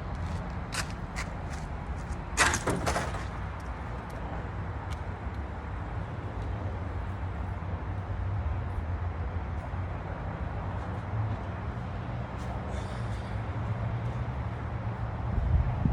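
Coolers being handled and loaded onto a car: a few light knocks, then a louder clatter about two and a half seconds in and a softer scrape near the end, over a steady low rumble.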